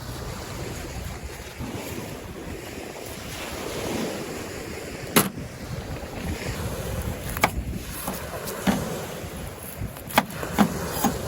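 Knife cutting vegetables, a handful of sharp, irregular knocks in the second half, over steady sea surf and wind.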